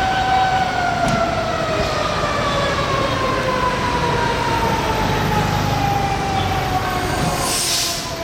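Japanese fire engine siren sounding one long wail that slowly falls in pitch, over a low truck engine rumble. A short hiss comes near the end.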